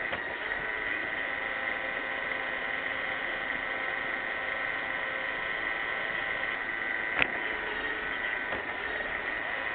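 iRobot Roomba 600 robot vacuum running, a steady motor and brush whine over a whir of suction. A single sharp knock comes about seven seconds in.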